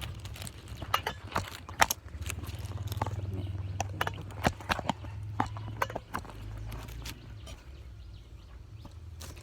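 Irregular sharp clicks and knocks, a few to several a second, over a steady low hum.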